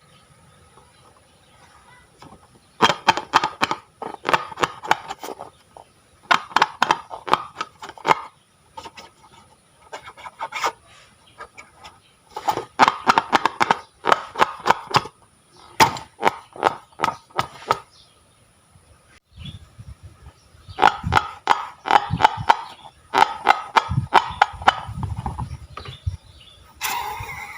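Slime being squeezed and stretched by hand, giving bursts of quick popping and crackling clicks from air pockets, each burst lasting a second or two with short pauses between.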